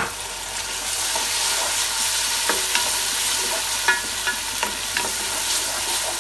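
Ginger-garlic paste and browned onions sizzling as they fry in hot oil, stirred in the pan, with a scattering of short clicks from the stirring.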